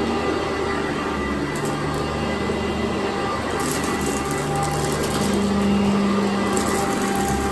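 Sanitaire upright vacuum cleaner running on carpet, its motor and brush roll making a steady hum whose tone shifts a little as it is worked.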